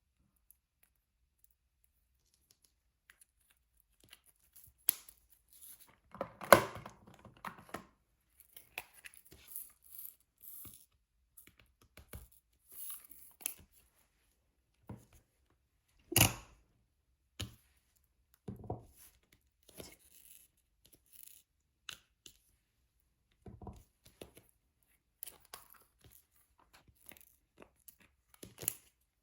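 Diamond painting handling sounds: light clicks, taps and short rustles of the drill pen, drill tray and canvas film, scattered and irregular. They start about four seconds in, with a louder rustle about six seconds in and a sharp crackle about sixteen seconds in.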